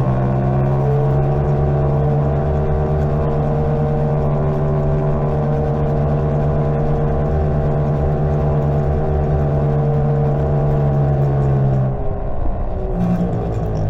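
Greenworks 60V electric mini bike riding along, its motor whining at a steady pitch over a low rumble of tyres and wind. The whine stops about twelve seconds in.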